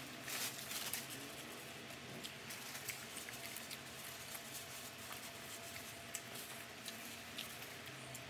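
A person chewing and eating close to the microphone: scattered small crunches and wet mouth clicks, thickest in the first second, over a faint steady hum.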